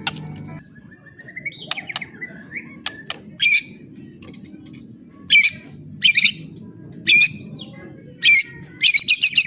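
White-rumped shama giving its harsh, rattling 'kretekan' call: about six short, loud bursts from about three and a half seconds in, the last ones coming close together, after a few soft rising whistles. It is the challenge call that provokes rival shamas.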